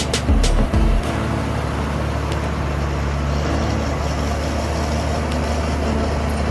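Heavy diesel earthmoving machinery, a dump truck or bulldozer, running steadily with a deep, even engine drone. A few sharp clicks come in the first second.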